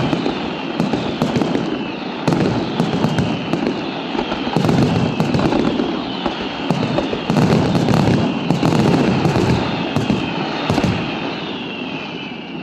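Fireworks display going off continuously: dense crackling and a rapid run of sharp bangs, with repeated falling whistles over the top. It eases off a little near the end.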